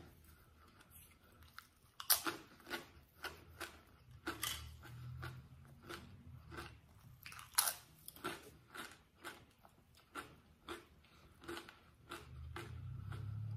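Close-up chewing of crunchy crackers: a string of irregular crisp crunches and bites, with the sharpest about 2 s and 7.5 s in. A low steady hum comes up near the end.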